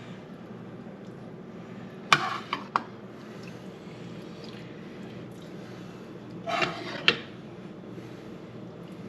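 Kitchen utensils clinking and scraping against a pan and plate as food is served: a few sharp clinks about two seconds in, and another cluster ending in a sharp clink around seven seconds in.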